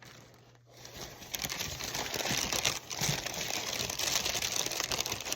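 Packing paper crumpling and rustling as it is handled and pushed aside, starting about a second in.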